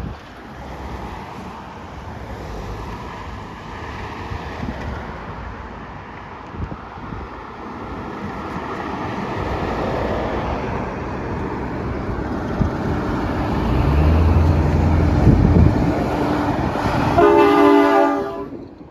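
A heavy truck approaches and passes, with engine and tyre noise growing louder, then a loud horn blast lasting about a second near the end.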